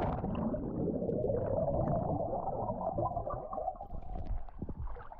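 Muffled underwater rumbling and gurgling, heard through a camera microphone submerged in seawater while swimming. The sound is low and dull and fades toward the end.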